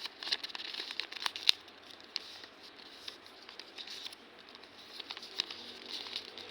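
A sheet of paper being folded and creased by hand: irregular rustling and crinkling with sharp crackles, the loudest about a second and a half in.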